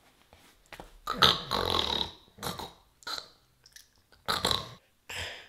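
A person's voice making wordless noises: a long rough burst about a second in, then several shorter ones.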